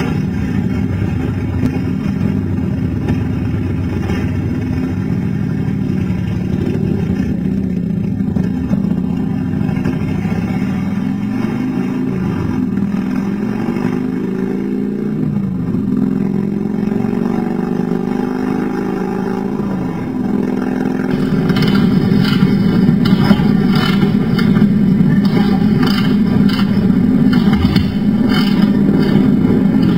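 Motorcycle engine running and revving, with the pitch rising and falling a few times in the middle and the sound growing louder about two-thirds of the way through.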